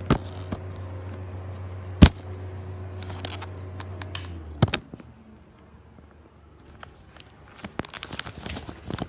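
Ceiling exhaust fan running with a steady low hum, switched off with a click a little under five seconds in, after which the hum cuts out. Scattered clicks and knocks throughout, the loudest about two seconds in.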